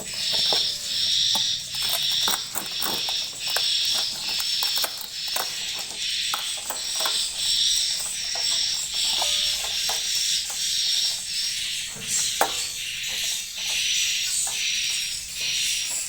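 Swiftlets chirping in a steady, rhythmic twitter, pulsing about one and a half times a second, with scattered sharp clicks and knocks throughout.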